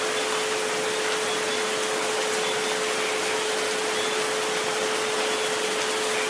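Steady rain-like hiss with a sustained pure tone, tuned to 432 Hz, held underneath, and a fainter second tone just above it, the 528 Hz one.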